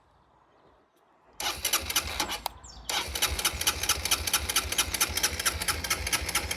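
Motorcycle engine turned over on its electric starter about a second and a half in, with power boosted from a jump starter. After a brief pause it turns over again, catches and runs with a rapid, even beat.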